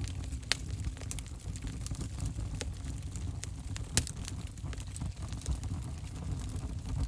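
Fire burning in a fireplace: a steady low rumble of flames with scattered sharp crackles and pops, the loudest pop about four seconds in.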